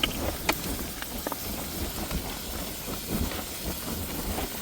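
Cooking on a camp stove in a pan of frying onions: a steady hiss with a few light clicks.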